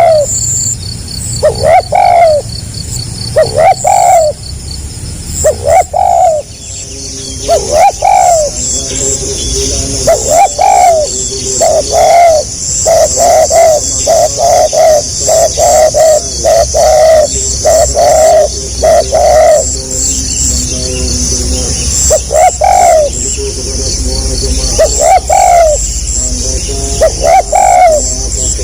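Spotted dove (tekukur) cooing, a stuttering song: single coos about every two seconds, then a fast run of about a dozen close coos in the middle, then spaced coos again. Faint high twittering of small birds runs underneath.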